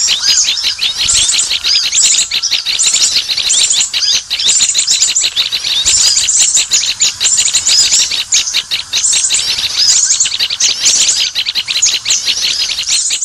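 Small birds chirping and twittering without pause: many rapid, overlapping high calls.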